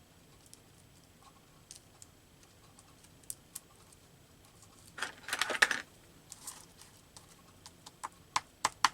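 A phone alert sounds briefly, a burst of under a second about five seconds in, among scattered light clicks and taps of paper and tools being handled.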